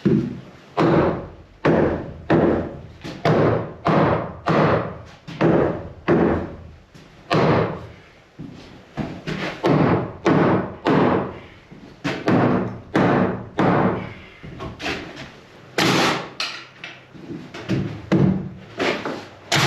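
Hammer pounding on wood framing in a steady run of heavy blows, a little more than one a second, knocking a tight stud or plate into position. The blows are lighter for a moment about eight seconds in.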